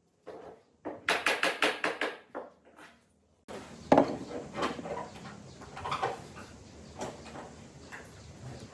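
Workshop handling sounds: a quick run of about seven sharp taps, then, after an abrupt change, a steady noisy background with scattered knocks of wood or tools.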